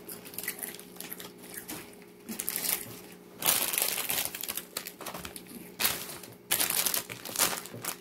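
Crisp wafer cookie being bitten and chewed close to the microphone: dry crunching in several bursts, heaviest over the second half.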